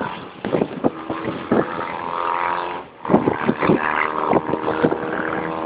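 Drag-racing motorcycle engines running loud, with many short sharp blips and cracks over a steady engine note; the sound drops out briefly about three seconds in, then returns.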